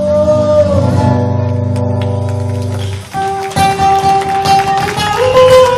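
Live rock band music with guitar. A held chord ends about three seconds in, and a new passage with a melody line begins.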